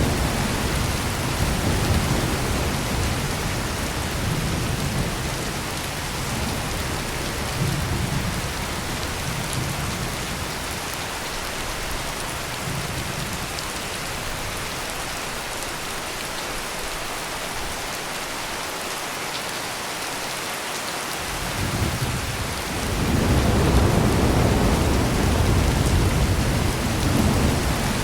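Heavy rain falling steadily, with low rolling thunder. The first rumble fades out over the first half, and a new roll of thunder builds about three-quarters of the way through and stays loud.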